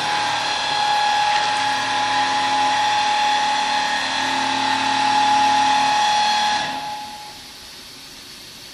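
Stemas CNC woodworking machine's motors whining steadily with a high pitch while it runs its start-up calibration, then winding down and stopping about two-thirds of the way through.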